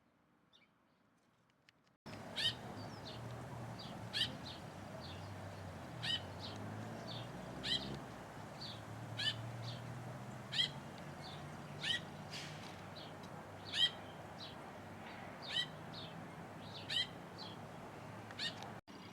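Short, sharp bird calls repeated about once a second over a steady low background hum. The sound cuts in suddenly about two seconds in and drops out briefly near the end.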